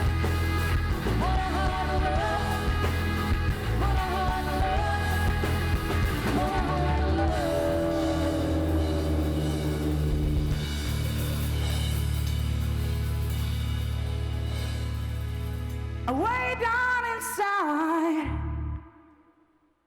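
Rock band music with a lead singer: a sung melody over the band, then a long held chord and a final sliding vocal phrase as the song ends, cutting off to silence just before the end.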